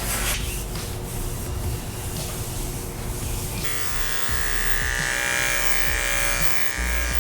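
Andis electric dog clippers buzzing as they cut through a small dog's fur, the buzz turning stronger and steadier about halfway through.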